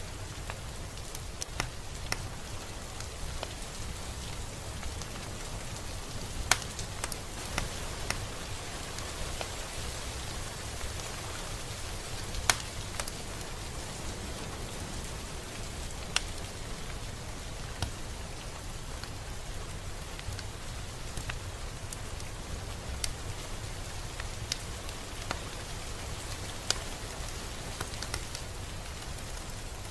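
Steady rain: an even hiss of rainfall with a low rumble underneath, and scattered single drops ticking sharply on a surface at irregular moments, a second or a few seconds apart.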